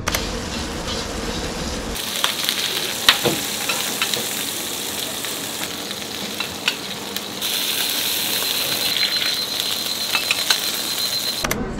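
Food frying in hot oil: a steady sizzle with a few sharp clicks of utensils. The sizzle changes abruptly about two seconds in and again near the end.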